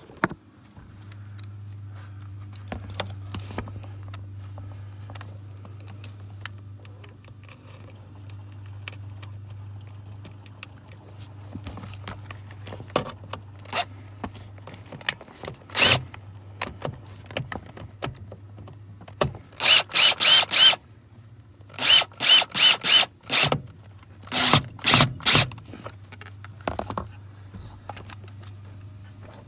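Power drill driving in the ground wire's mounting screw in short bursts: four quick pulses about twenty seconds in, then five, then three. Scattered clicks of handling sit over a steady low hum.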